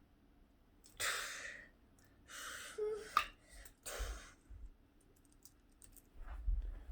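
Three breathy puffs of air, like sighs, about a second apart, with a short sharp click between the second and third.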